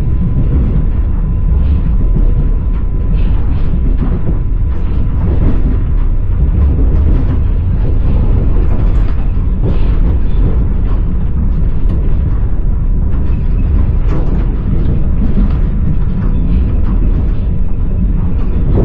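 Passenger train carriage heard from inside: a steady loud rumble of the wheels on the rails, with scattered clacks as the wheels cross rail joints.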